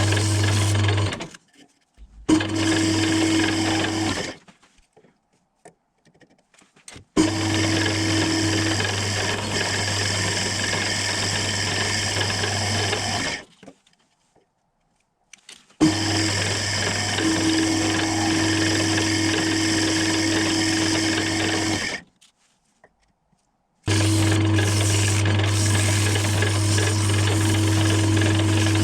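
Small electric motor running with a steady hum in repeated runs of two to six seconds, stopping dead for about two seconds between runs.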